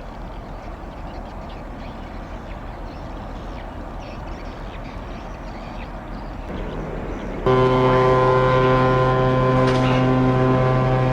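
A steady rumble of background noise, then about seven seconds in a ship's horn starts a long, loud, steady blast that is still sounding at the end.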